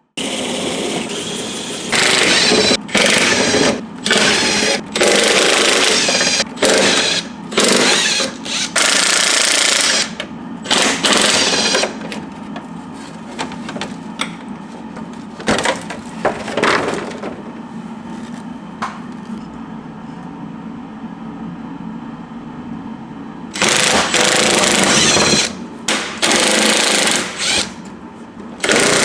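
Impact wrench run in repeated short bursts of hammering rattle, loosening fasteners. There is a quieter stretch in the middle before several more bursts near the end.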